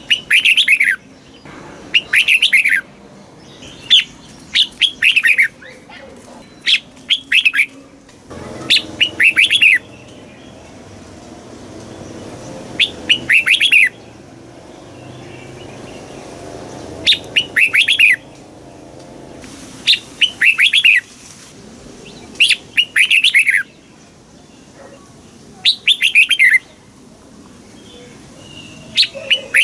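Red-whiskered bulbul singing: short, loud phrases of quick chirpy notes, repeated about a dozen times with pauses of one to three seconds between them.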